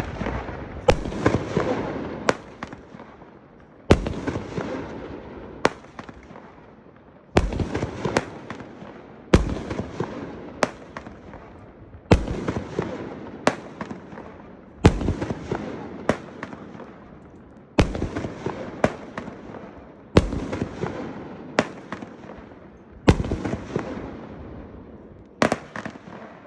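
Pyro Diablo 'Noisemaker', a 200-gram consumer multi-shot firework cake, firing shot after shot. Each shot is a sharp bang followed by a fading tail, coming about every one to two seconds.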